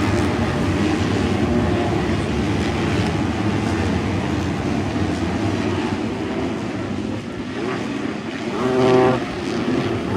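A field of motocross dirt bikes racing, many engines running together in a steady wall of sound; one engine swells louder about nine seconds in, then falls away.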